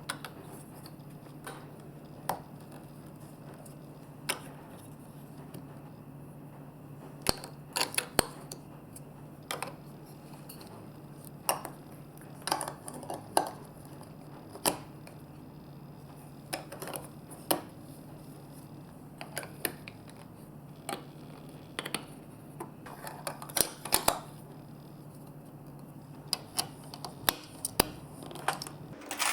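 Irregular small clicks and knocks of marbles and plastic blocks on a toy marble run, some sharper than others, over a steady low hum.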